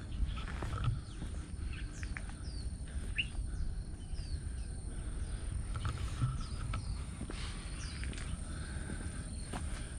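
Wild birds chirping with short, quick falling calls, over a low steady rumble. A few faint clicks, like footsteps on stone steps, come through now and then.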